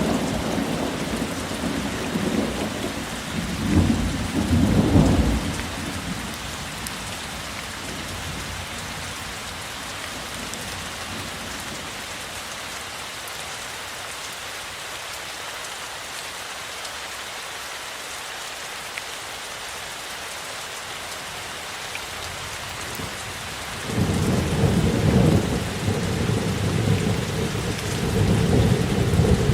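Steady rain falling throughout, with low rolling thunder rumbling about four seconds in and again over the last few seconds.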